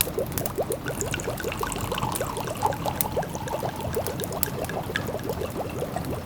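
Pot of food simmering on the stove, bubbling steadily with many small rising blips, several a second. Sharp crackles of a wood fire are scattered through it.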